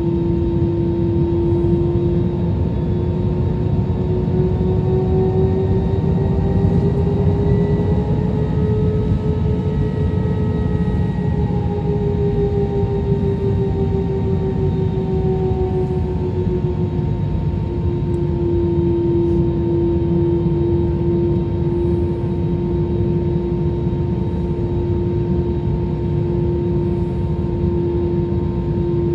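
Jet airliner engine noise heard inside the cabin: a steady deep rush with a strong engine hum that rises slightly in pitch near the middle, then settles back to its earlier pitch.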